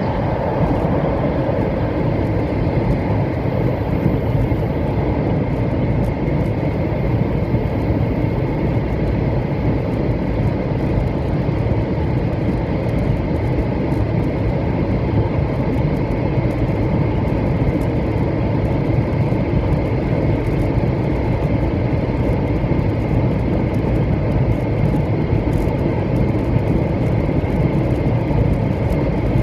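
700 series Shinkansen train running at speed, heard inside the passenger cabin: a steady low rumble of running noise with a faint high whine, unchanging throughout.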